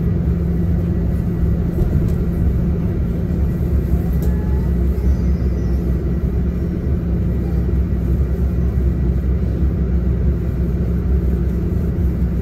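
Inside a diesel tour coach on the move: a steady engine drone and road rumble at a constant, unchanging pace.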